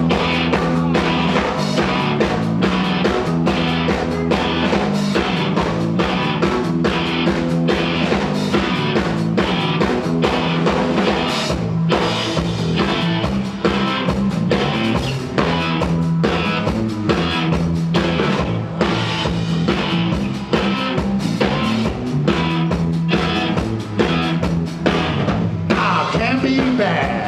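Rock band playing live: a drum kit keeps a steady beat under electric guitar and bass.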